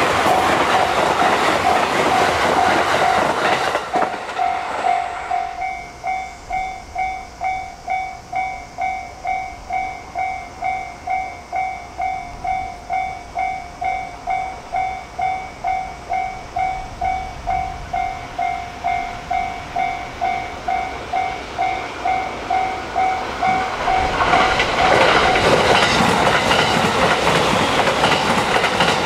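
A 681/683-series limited express electric train runs past at speed, wheels clattering over the rail joints, and fades out about four seconds in. Then a Japanese level-crossing warning bell rings steadily, a little over two strokes a second, the signal that a train is due. Near the end another train passes at speed while the bell is still ringing.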